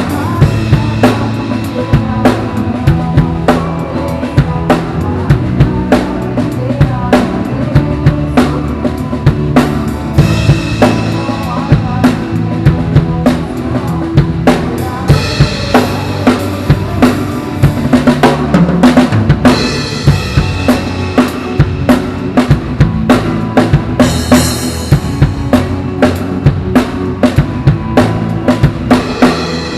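Drum kit played along with a recorded worship song: a steady beat of kick and snare with cymbals, over the song's backing music.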